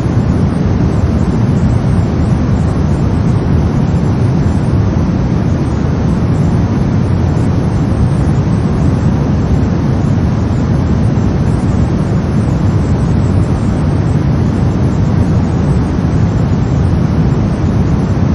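Brown noise: a steady, deep, rumbling hiss with its weight in the low end and no changes, tones or events.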